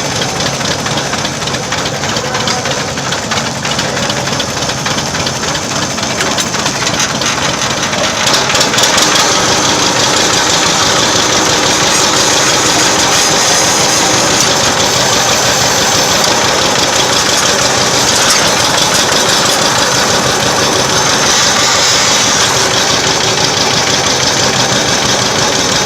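Old tractor engine running with a steady, close-up chugging. It gets louder about a third of the way in, as if the throttle is opened, then holds steady.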